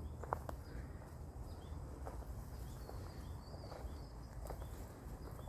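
Footsteps on a path, a few soft irregular steps or rustles, with faint short high chirps in the background.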